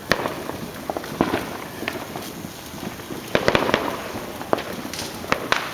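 Fireworks going off all around: sharp bangs and cracks at irregular intervals, with a rapid cluster of reports a little past halfway.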